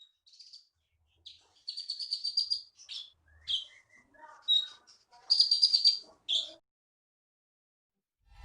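A konin songbird singing in short, varied phrases of rapid high chirps and trills, with a few lower warbled notes in between, falling silent about two-thirds of the way through.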